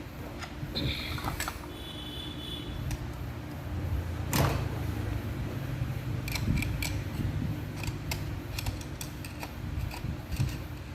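Metal hand tools and engine parts clinking and knocking during motorcycle engine disassembly, with one sharper knock about four seconds in and a run of light clicks after it.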